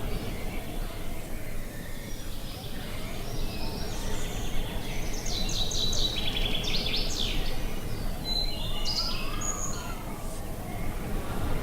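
Songbirds chirping and trilling in quick runs of high notes over a steady low wind noise. The birdsong is busiest in the middle of the stretch.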